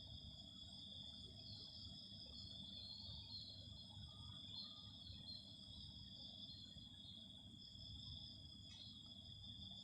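Faint, steady high-pitched trilling of insects such as crickets, two tones at different pitches running without a break, with a few short chirps mixed in and a low rumble underneath.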